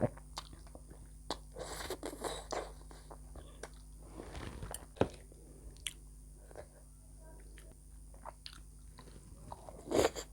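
A person eating close to the microphone: chewing and biting, with scattered wet clicks and smacks, a few longer rustling bursts, and a louder burst near the end.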